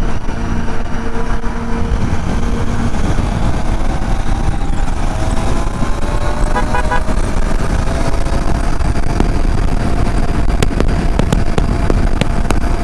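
Motorcycle riding at highway speed: a steady rush of wind and engine noise, with an engine tone rising slowly in the middle. A vehicle horn toots briefly in short pulses about six and a half seconds in.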